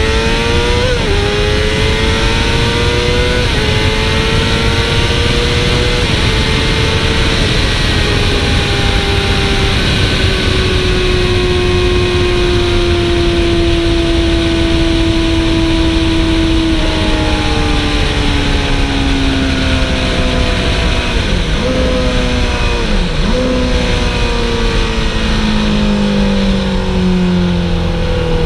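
Sport motorcycle engine at racing speed, heard onboard under heavy wind rush. The engine note climbs and drops through quick upshifts in the first few seconds, holds a fairly steady pitch through the middle, then steps down through several downshifts from about 17 seconds in, falling steadily near the end as the bike slows for a corner.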